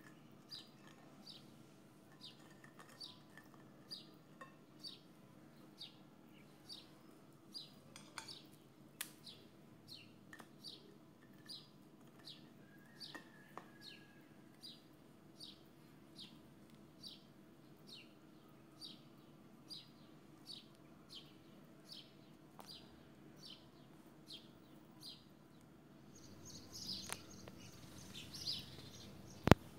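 A bird chirping over and over, short high chirps about two a second, with a few faint clicks. A sharp click just before the end is the loudest sound.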